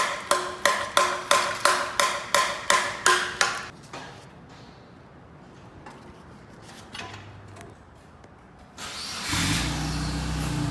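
A hammer strikes metal about three times a second for the first three and a half seconds, each blow ringing. Near the end the 2001 Subaru Outback Sport's flat-four boxer engine starts and settles into a steady idle, its exhaust now without a catalytic converter.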